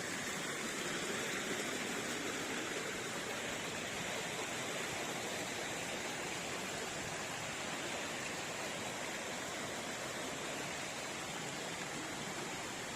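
Waterfall's falling water: a steady, even rush of white water.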